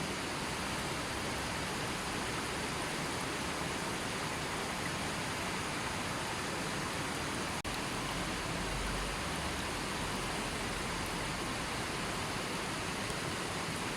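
River water flowing steadily, an even rushing hiss with no birds, with a momentary dip in level about halfway through.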